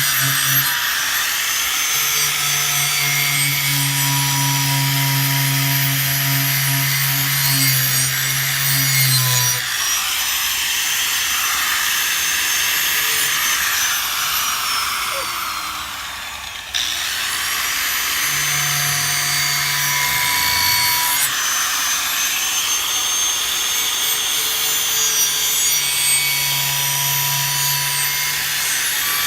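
Power wire wheel scrubbing rust off an old steel sickle blade, a steady grinding hiss. It eases off for a moment about halfway through and picks up again suddenly.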